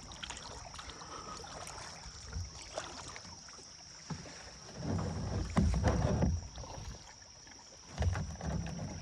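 Kayak paddle strokes dipping and splashing in river water. The louder strokes come about five to six seconds in and again near the end.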